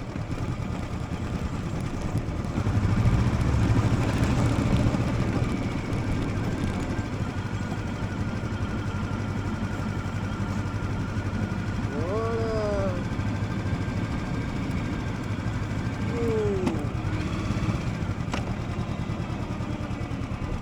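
Motorcycle engine running with a steady low pulsing note, picking up a little about three seconds in and then settling back.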